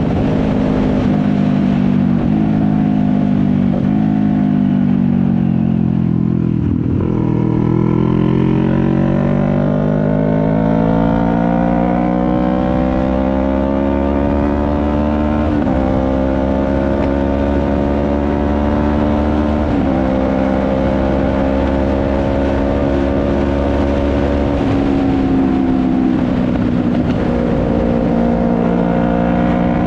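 CFMoto 400NK's parallel-twin engine slowing down with falling revs, then accelerating with rising revs and two quick upshifts, each a sudden drop in pitch. It settles to a steady cruise, with a brief dip and pick-up near the end.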